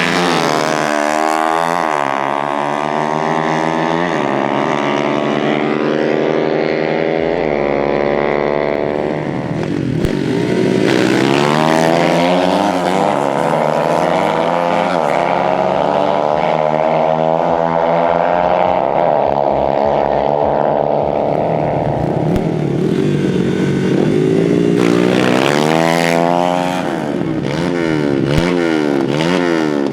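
Dirt-bike engines revving hard under acceleration, their pitch climbing and falling back again and again as they shift up through the gears; at times more than one engine is heard at once.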